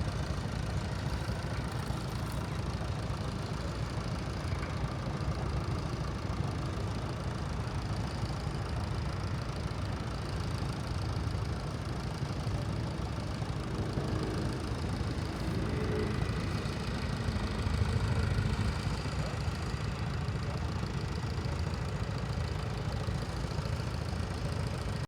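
Tractor engine running steadily, with a slight swell in level about three-quarters of the way through.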